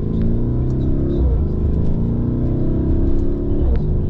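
Lamborghini Urus's twin-turbo V8 accelerating, heard from inside the cabin: the revs climb, drop with an upshift about a second in, climb again, and drop with a second upshift near the end.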